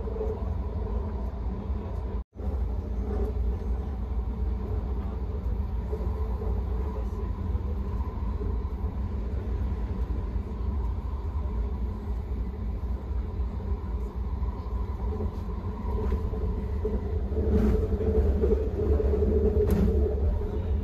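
SkyTrain rapid-transit car running along the track: a steady low rumble with a faint whine. The sound drops out for an instant about two seconds in and grows louder near the end.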